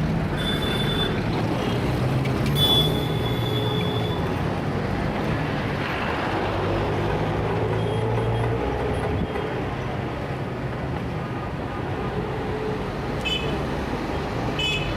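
Heavy city street traffic: a continuous rumble of engines and tyres with a low engine hum. Two short high-pitched tones sound in the first few seconds.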